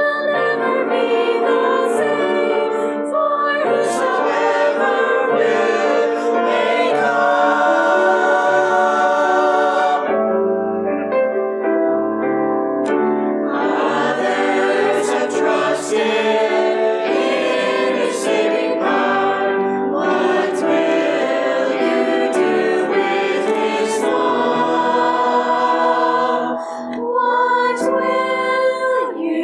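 Church choir singing a song from a Christmas cantata, with a brief dip in loudness near the end.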